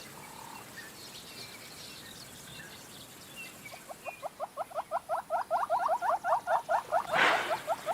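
A rapid, even run of short chirping animal calls, about eight to ten a second, starts a few seconds in and grows louder. Just before the end comes a brief loud rush of noise. Faint scattered bird-like chirps come earlier.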